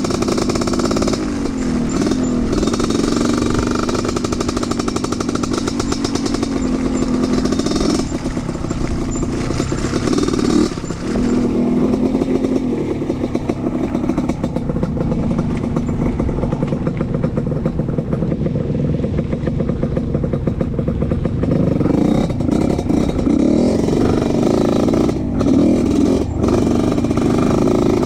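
Trail motorcycle engine running through an off-road ride, its pitch rising and falling with the throttle. A few sharp knocks and rattles come in near the middle and toward the end.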